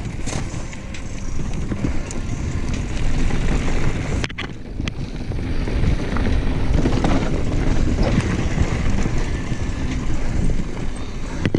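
Mountain bike rolling over a dirt trail: steady tyre and frame rattle with scattered clicks and knocks, under wind buffeting the microphone.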